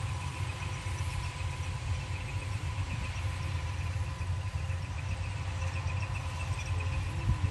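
An engine running steadily, with a low rumble and a steady high whine.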